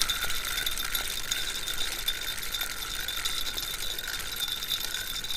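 Fishing reel being wound in, a steady whirring hiss with a thin high whine, as the line is retrieved after a missed strike.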